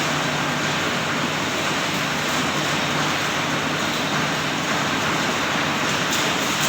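Compost shredder-sifter machine running with a steady, loud mechanical noise and a low hum underneath.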